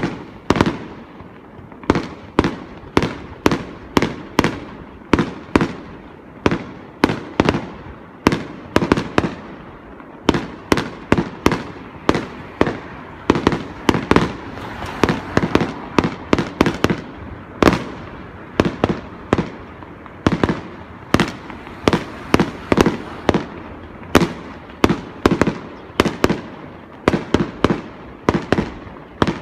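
Aerial firework shells bursting in a rapid, continuous barrage, two to four bangs a second, each trailing off in a short rumble.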